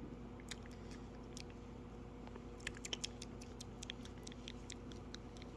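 Parrot's beak making scattered small, sharp clicks and taps as it nibbles and chews, thickening into a quick irregular cluster about halfway through.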